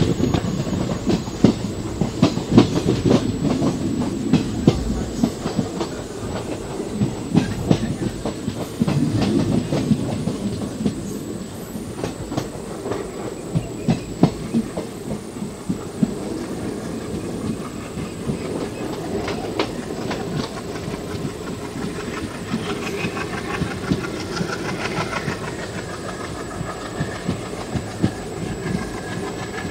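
Passenger train coach running along the line, heard from inside the moving coach: a steady rumble with the wheels clacking over rail joints.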